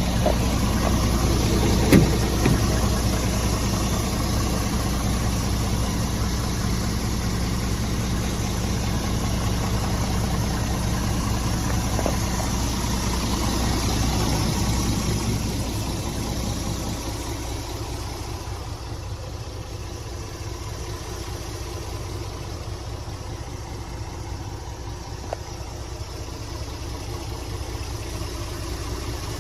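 Scania R450 tractor unit's 13-litre inline-six diesel idling steadily. A sharp click comes about two seconds in, and the engine sound grows quieter and duller about halfway through.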